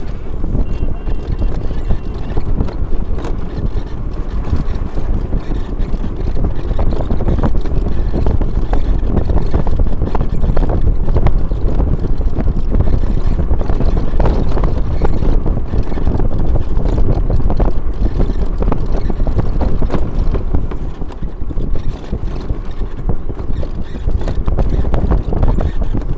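Loud wind buffeting the microphone, a dense low rumble with many short knocks and crackles, as from moving along a road. It dips briefly about 21 seconds in.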